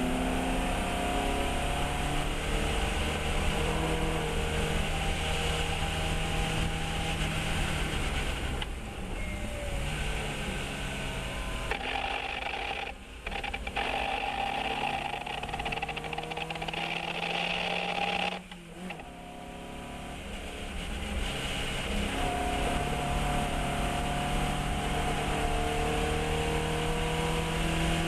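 Fiat 132 race car's engine running hard on track, its note climbing through the revs and falling again, with two sudden brief drops in the middle where the throttle is lifted or a gear is changed.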